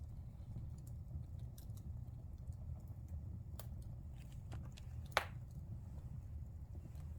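Wood fire burning in a fireplace: a low steady rumble of flames with scattered small crackles, and one sharp pop of burning wood a little after five seconds in.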